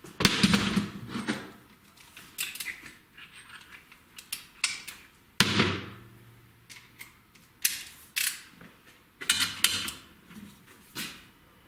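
Metal hand tools being handled at the workbench: irregular clicks, clinks and short rattles, with a few sharper knocks, the loudest at the start and about halfway through.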